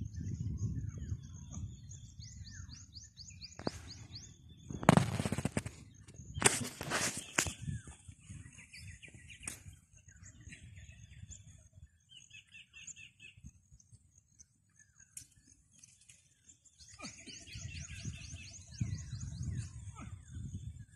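Small birds chirping and giving repeated fast high trills. Two loud noisy bursts come about five and seven seconds in, and a low rumble fills the start and the last few seconds.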